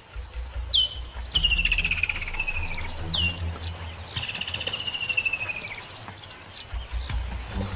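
Bird calls: twice a short, sharp downward whistle is followed by a long trill that falls slowly in pitch, over a low steady hum.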